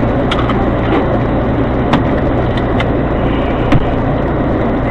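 Car on the move: steady engine and road noise, broken by a few sharp clicks or knocks, the loudest near the end.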